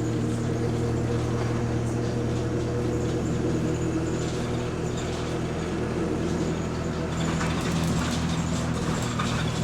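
Bus engine running steadily, heard from inside the passenger saloon: a low drone with a few steady tones that shift slightly about halfway through.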